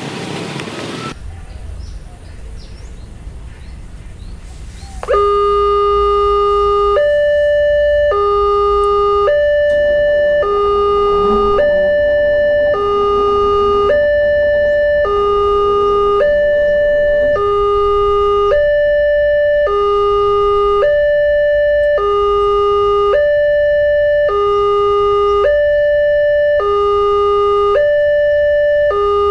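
Railway level-crossing warning siren, a Wantech early-warning system, sounding a two-tone hi-lo signal that warns of an approaching train. It starts about five seconds in, loud and even, each tone held about a second, over a low background rumble.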